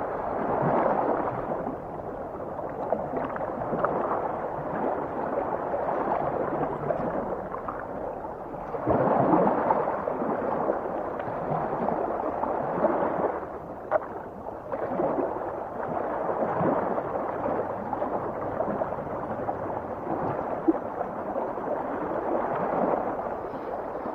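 Underwater ocean sound: a churning, gurgling wash of water that swells and fades every few seconds, with a few sharp clicks scattered through it.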